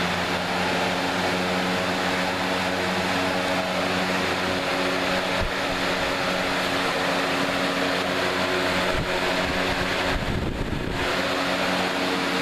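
A Lasko 3733 box fan running on its high setting: a steady rush of air over a steady motor hum made of several tones. A brief low rumble comes about ten seconds in.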